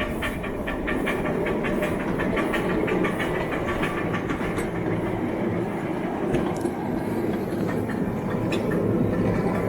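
Model or garden-railway train running along its track, its wheels clicking rapidly and evenly over the rail joints; the clicking thins out about halfway through.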